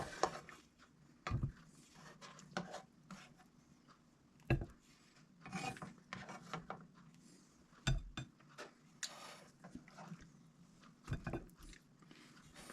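Utensils scraping and knocking against a pot and plate as ribs and onions are dished up: a few soft, scattered knocks among quiet scraping.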